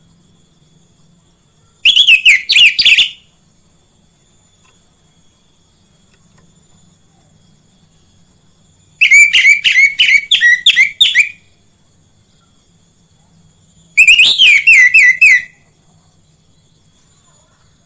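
Orange-headed thrush (anis merah) singing three short phrases of rapid, loud whistled notes, several seconds apart. It is the kind of song played to lure caged thrushes into singing.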